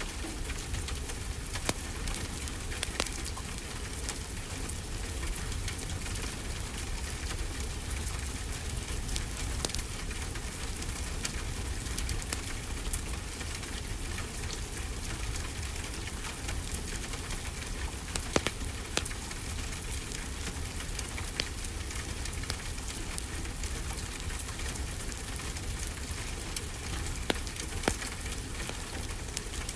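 Steady rainfall hissing, mixed with a crackling wood fire whose sharp pops come at irregular moments, a few louder ones standing out.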